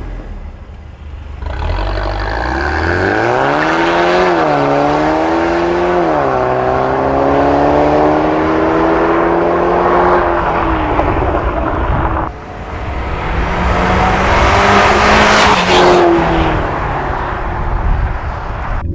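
Mercedes-Benz CLA250's 2.0-litre turbocharged four-cylinder M270 engine, heard through an aftermarket valvetronic catback exhaust, accelerating hard. The pitch climbs and drops back at gear changes. The sound cuts sharply about twelve seconds in, then climbs again to a peak near the end.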